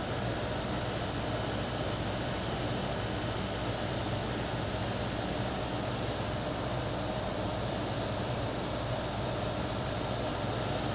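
Window air conditioner running steadily: its Toshiba rotary compressor humming along with the fan, the unit pulling down to cold and running smoothly.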